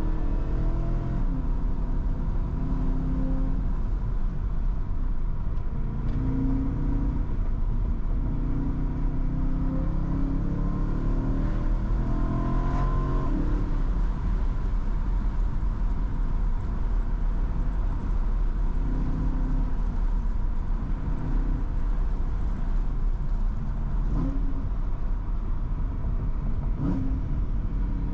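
BMW M3's V8 engine running under way over steady road rumble, its note climbing in pitch a few times as the car accelerates. The exhaust is the stock M Performance catback, so the note stays fairly subdued.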